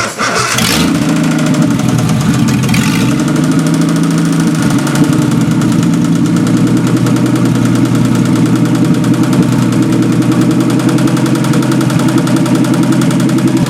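Standard-Triumph inline six-cylinder engine running steadily, starting abruptly at the opening with a brief rougher first second before settling into an even run.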